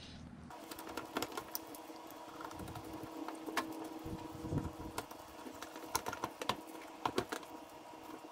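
Irregular light clicks and taps of ceiling fan parts being handled and fitted together while lining up their screw holes, over a faint steady hum that starts about half a second in.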